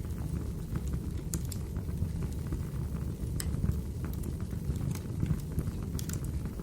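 Wood fire burning with a steady low rumble and scattered sharp crackles and pops of the logs.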